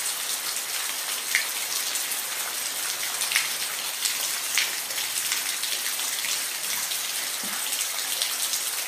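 Steady rain falling, an even hiss with individual drops pattering sharply here and there.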